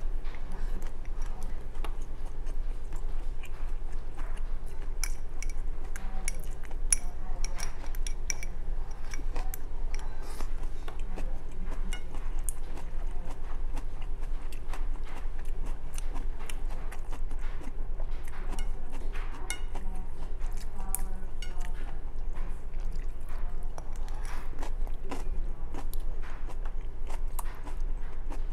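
A person chewing and eating with chopsticks, with many small mouth clicks and light taps of the chopsticks on a porcelain rice bowl and plate, over a steady low hum.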